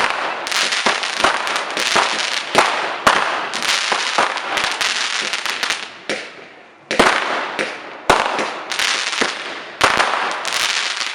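Fireworks going off in rapid succession: sharp bangs over dense crackling. The barrage thins briefly about six seconds in, then picks up again with three fresh loud bangs, each followed by crackle.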